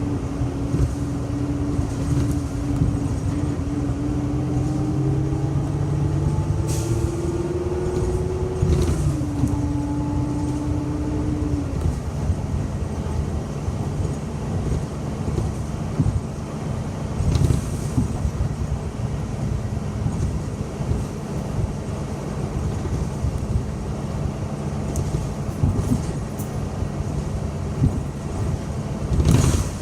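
Inside a moving city bus: steady engine and road rumble, with a drivetrain whine that slowly rises in pitch, steps down about nine seconds in and fades a few seconds later. A few short hisses come through now and then.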